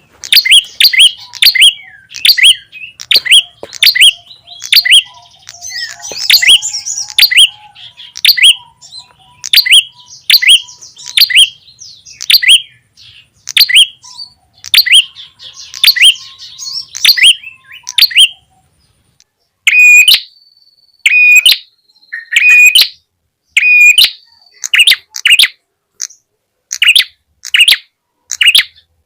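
Lure recording of prenjak tamu (prenjak kepala merah) calls: sharp chirps repeated about one and a half times a second, with a softer chatter among them early on. After a short pause a little past halfway, the chirps come back louder and cleaner, with a thin steady whistle held behind them.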